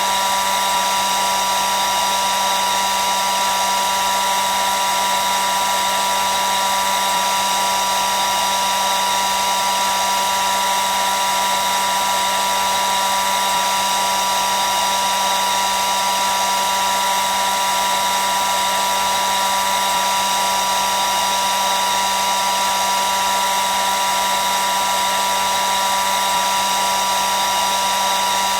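Hair dryer running continuously, a steady rush of blown air with a constant motor whine on top.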